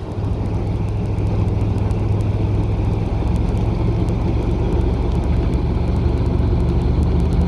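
YaMZ-236 V6 diesel of a TU6A narrow-gauge locomotive running steadily as the locomotive travels along the line, heard from aboard. The engine note shifts slightly near the end.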